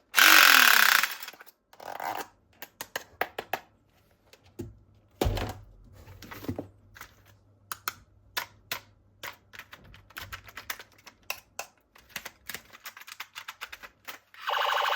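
Plastic toy weapon parts and packaging being handled: a burst of rustling at the start, then many irregular clicks and light knocks, with a dull thump about five seconds in.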